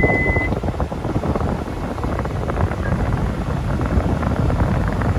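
Steady rushing noise of the Hyundai Porter II truck running with its cab air conditioning blowing. A high steady electronic beep stops about half a second in.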